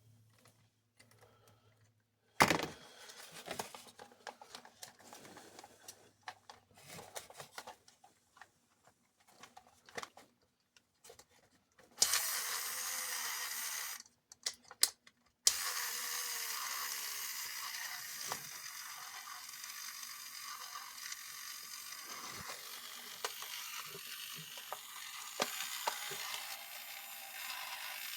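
Scattered clicks of plastic parts being handled, then a steady whir from the plastic toy robot's small motor and gear train running. About halfway through it stops briefly, then starts again and keeps running.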